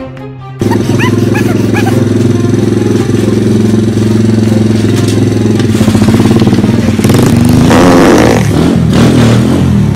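Motorcycle engine running loudly at a steady pitch, starting suddenly, then turning rougher and wavering as it revs in the last few seconds before cutting off.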